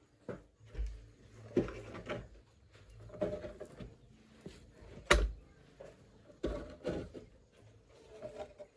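Irregular knocks, thuds and clatters of objects being handled, with one sharp loud knock about five seconds in.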